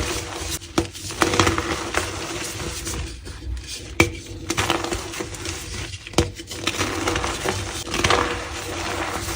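Green gym chalk being crushed by hand: gritty, powdery crunching and crumbling, with three sharp snaps as pieces break.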